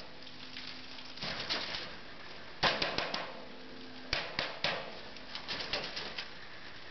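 A bird trapped inside a wood stove's chimney, fluttering and scrabbling in several short bursts of wing-flapping and scratching.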